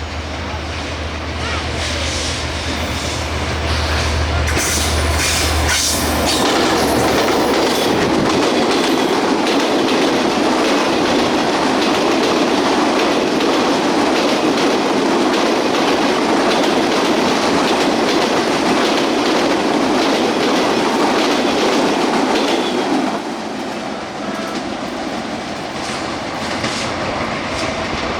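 Express passenger train passing at speed. Its diesel locomotive hums low for the first few seconds, then the coaches rush past with wheels clattering over the rail joints, and it eases off about 23 seconds in as the last coaches go by.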